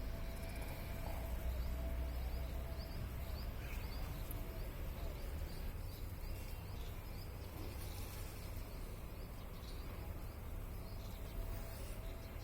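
Small birds chirping in a quick series of short, high notes over a steady low rumble.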